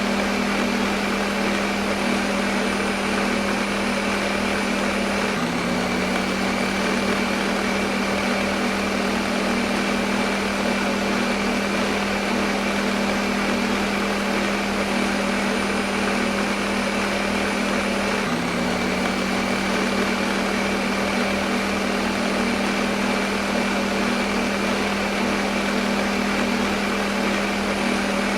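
Electric kitchen blender motor running continuously: a steady whirring hum with a strong low tone, which dips briefly twice.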